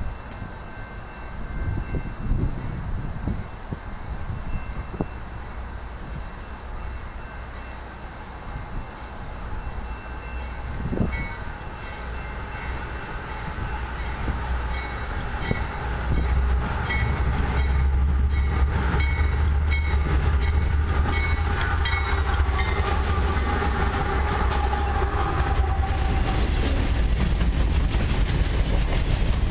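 Freight train led by two CP GE AC4400CW diesel locomotives approaching and passing: the engines' rumble grows louder about halfway through, with a high tone repeating about once a second as they come up. Then the freight cars roll by close with steady wheel-on-rail clatter.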